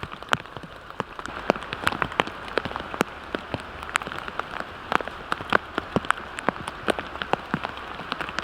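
Heavy rain falling steadily, with many sharp, irregular ticks of individual drops striking close by.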